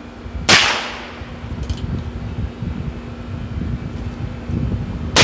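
Two shots from a Heritage Rough Rider .22 rimfire single-action revolver, one about half a second in and another at the very end, over a steady air-conditioner hum.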